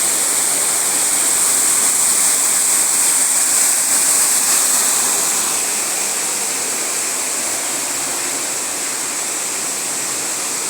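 Steady rushing of falling water, a waterfall or water feature in an indoor rainforest exhibit, dropping a little in level about halfway through.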